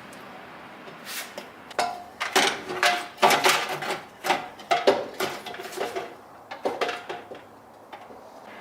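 Metal being worked by hand in a small room: a run of irregular clanks, snips and scrapes, some with a short metallic ring.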